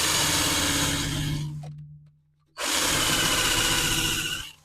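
A power tool spinning a strip wheel, grinding undercoating overspray off a car muffler, in two bursts. The first runs about a second and a half and winds down. The second starts about two and a half seconds in and cuts off near the end.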